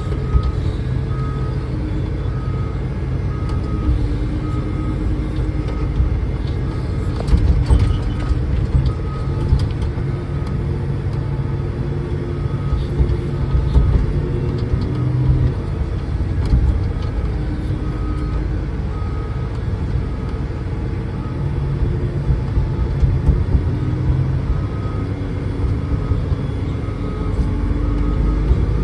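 Diesel engine of an ejector haul truck running steadily, with a backup alarm beeping on and off at an even pace throughout.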